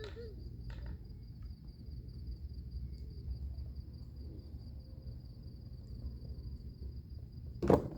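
Crickets chirping steadily in a high, even trill over a low background rumble. A single sharp knock sounds near the end.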